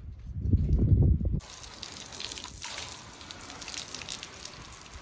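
Water spraying and splattering onto the sanded truck bed as it is washed down, a steady hiss. Before that, a loud low rumble cuts off abruptly about a second and a half in.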